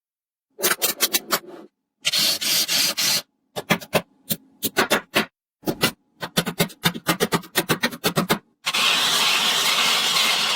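Small magnetic balls clicking as they snap onto one another, in quick runs of sharp clicks. Twice there is a longer stretch of many balls rattling and scraping together, about two seconds in and again near the end.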